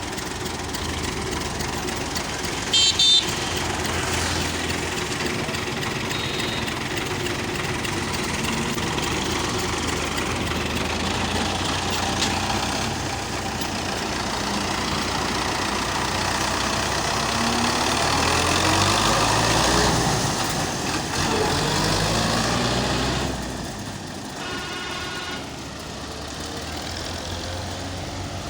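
Heavy vehicle engine running steadily, its pitch rising for a few seconds past the middle, with a short horn toot about three seconds in and another horn blast near the end.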